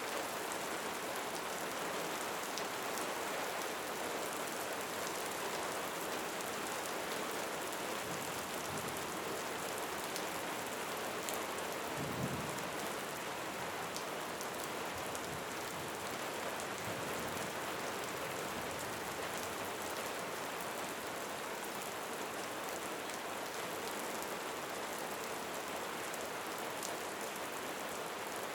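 Steady rain falling. About twelve seconds in there is a brief low thump.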